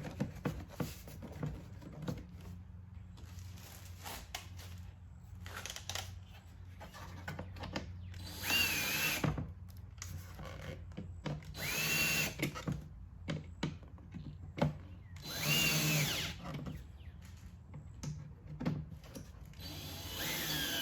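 Cordless power screwdriver driving Torx screws in four short runs, its motor whine rising and bending in pitch during each run, with clicks and knocks of handling in between.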